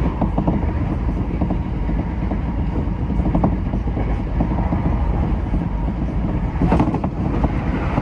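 Tokyo Metro 10000 series train running along the track: steady running rumble with wheels clicking over rail joints, and one louder clack about seven seconds in.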